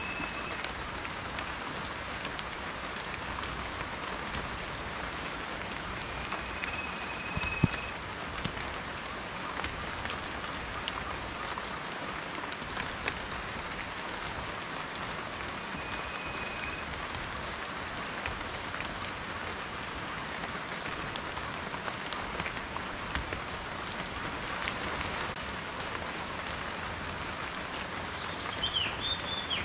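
Steady rain falling on a surface, an even hiss with individual raindrops ticking, one sharper drop hit about seven and a half seconds in. A few brief, faint high whistles sound over it, one wavering near the end.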